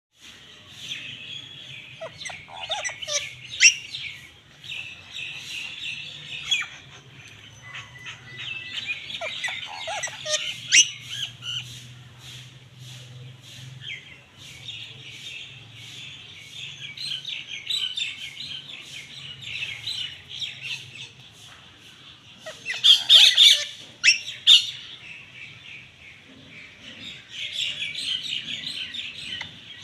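Parrots chirping and chattering without a break, with a burst of loud squawks about three-quarters of the way through.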